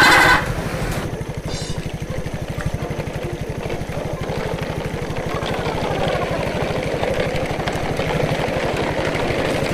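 A motor running steadily with a rapid, even pulse, with a brief loud pitched sound at the very start.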